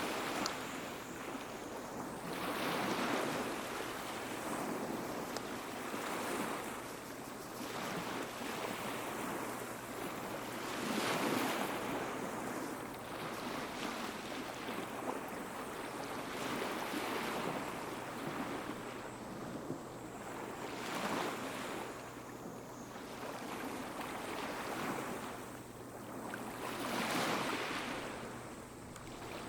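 Small sea waves breaking and washing up on the shore, each surge swelling and falling away every two to four seconds.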